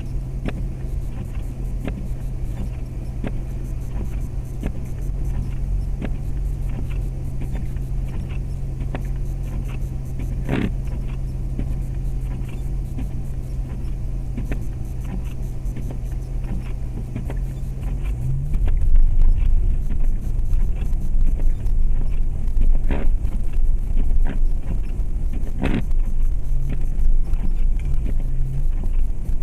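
2004 Jeep Grand Cherokee with a 4.7-litre V8 driving on snowy roads, heard from inside the cabin: a steady engine and road hum that grows louder and rougher about two-thirds of the way in. A few sharp knocks or rattles come through along the way.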